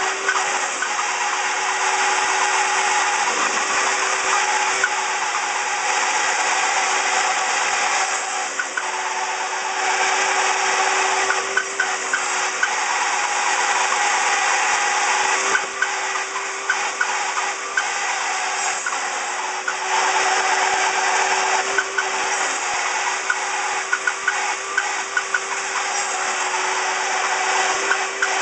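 Table saw running with a steady whine while its blade cuts a series of fret slots across a cigar box guitar neck; the cutting noise swells every few seconds as the board is pushed through for each slot, with small clicks between cuts.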